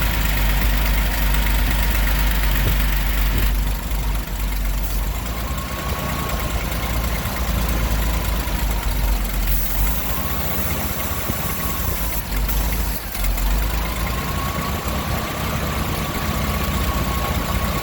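GMC 305 V6 engine idling steadily after eight years of sitting, kept running with squirts of fuel from a spray bottle while it draws old, rusty fuel from the tank. A faint wavering whine sits above the engine note.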